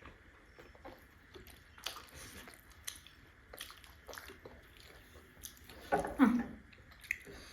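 Close mouth sounds of someone chewing and biting into steamed buff momos, with scattered small wet clicks and smacks. A brief voice sound comes about six seconds in.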